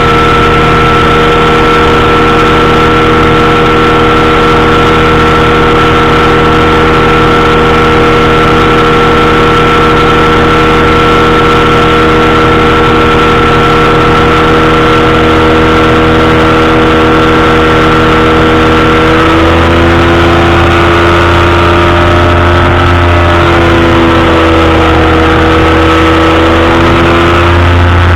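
Powered parachute's engine and propeller running steadily in flight. About two-thirds of the way through, the engine note drops slightly in pitch and then wavers.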